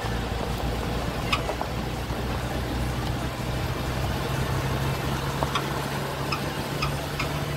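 Motor vehicle engine running steadily while driving along a dirt road, a low drone with a few light clicks and rattles.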